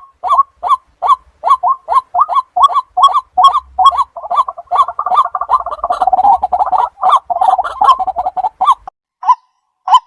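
White-breasted waterhen calling: a run of short repeated notes, about three a second, that crowd into overlapping calls in the middle, then thin to a few single notes near the end.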